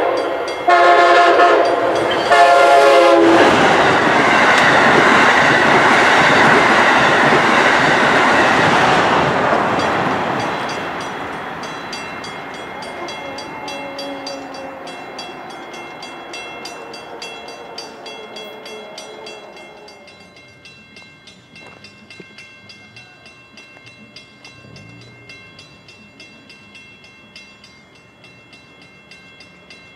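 Amtrak passenger train sounding its horn for the grade crossing, two blasts in the first few seconds. It then passes at speed with a loud rush of wheels on rail, fading gradually over about fifteen seconds.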